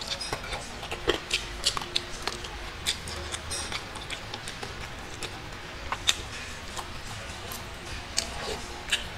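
Close-up chewing of fried dried fish and rice: irregular, quick mouth clicks and smacks, a few of them sharper than the rest.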